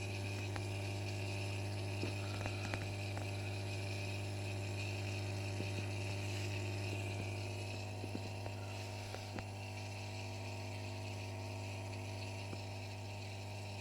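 Bosch dishwasher's drain pump running with a steady mains-frequency hum, a few faint ticks over it.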